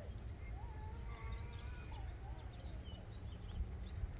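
Faint outdoor ambience: birds calling in short chirps and rising and falling phrases over a low rumble.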